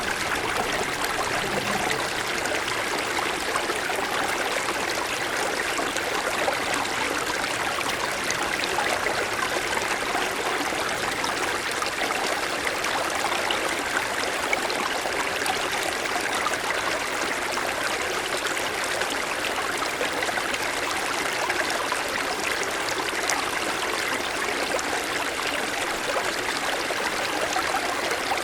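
Small mountain stream running over snow-covered stones: a steady, even rush of flowing water with fine trickling.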